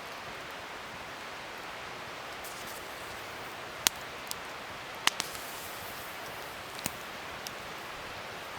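Wood fire burning with a steady hiss and several sharp crackling pops, starting about four seconds in.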